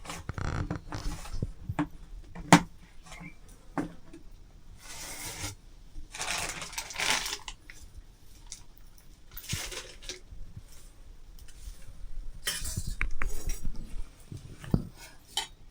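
Metal dishes and utensils clattering: scattered sharp clinks and knocks, the loudest about two and a half seconds in, between short bouts of scraping or rustling.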